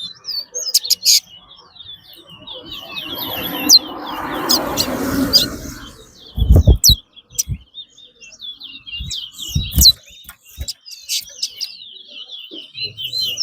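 Caged songbirds in a singing race, chirping and twittering in quick high runs. About two seconds in a rushing noise swells and fades, followed by a few low thumps.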